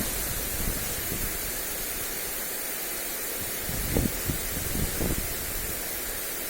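Steady hiss of a lawn sprinkler's spray falling on grass, with wind buffeting the microphone in short rumbles about four and five seconds in.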